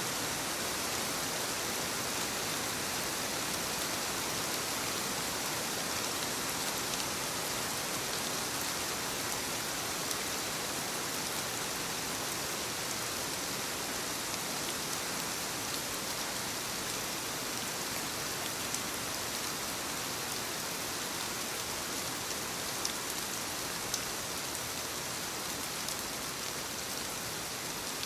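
Soft rain falling steadily on leaves, an even hiss with a few sharper drop ticks in the second half.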